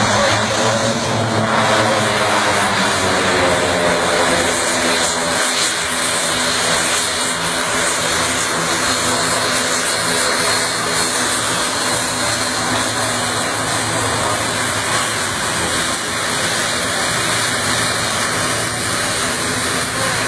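Turboprop engines and propellers of a C-105 Amazonas (CASA C-295) military transport plane running loud and steady, a droning hum of several pitches that drifts slightly lower over the first few seconds.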